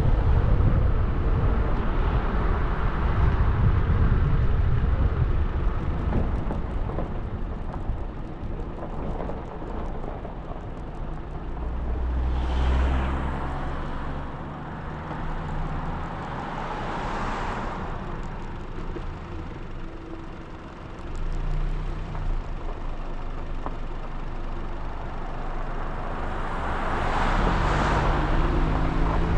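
Car driving along a road: a steady low rumble of engine and tyre noise, with noisy swells that rise and fall a few times, as when other vehicles pass.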